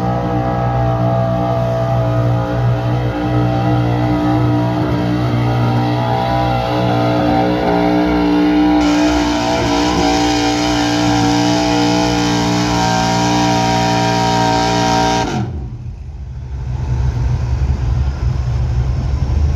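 LSX V8 engine of a truck-pulling pickup running hard at steady high revs under load. About fifteen seconds in it lets off and the revs drop sharply, leaving a lower rumble.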